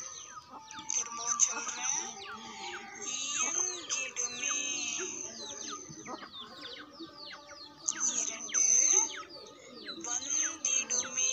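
Birds chirping and calling in many quick, overlapping chirps, with stretches of a high, shrill trill that is loudest near the end.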